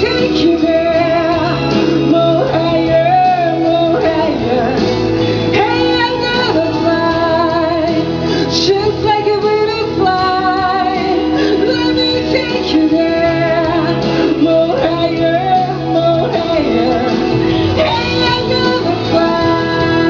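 A pop-rock song: a lead voice sings a melody with vibrato over a full band accompaniment with bass and keyboards.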